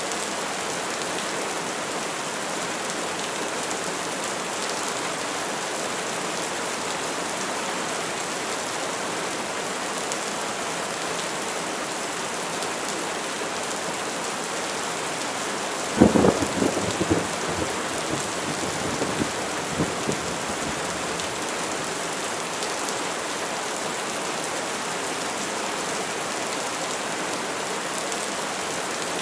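Steady rain, with a sudden crack of thunder a little past halfway and a few seconds of rumbling after it.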